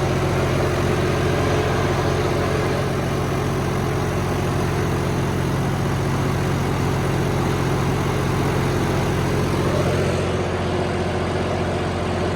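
John Deere tractor's diesel engine running steadily under load in second gear, pulling a set of harrow discs.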